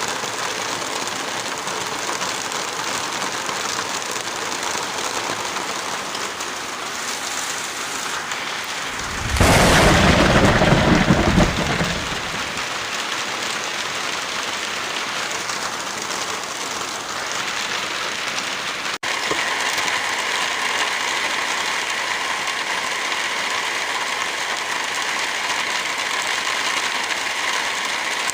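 Steady heavy rain. About nine seconds in, a sudden loud, deep rush lasts a couple of seconds. Around nineteen seconds there is a momentary dropout, after which the rain carries faint steady tones.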